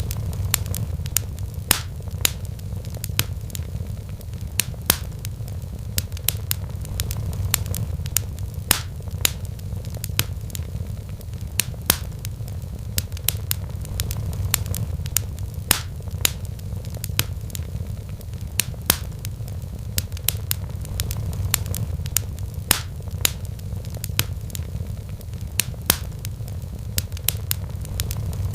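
Wood fire in a fireplace crackling, with irregular sharp pops often several a second, over a steady low rumble.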